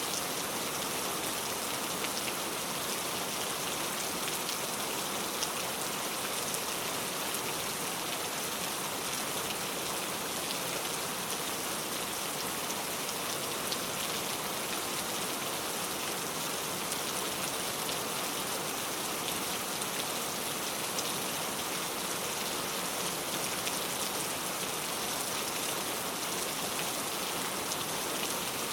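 Steady rain: an even hiss with many small drop ticks scattered through it, unchanging throughout.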